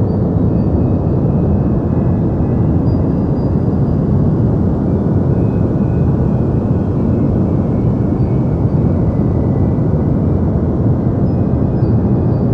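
Deep white noise for sleep: a steady, even rushing rumble, strongest in the bass with little hiss on top, unchanging throughout.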